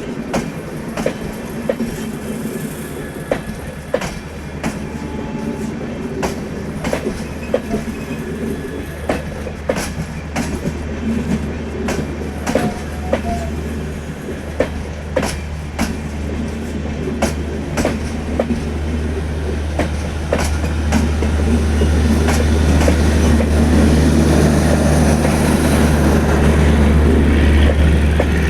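Express passenger train running on the rails: a steady low rumble with irregular clicks of wheels over rail joints. It grows louder over the last several seconds.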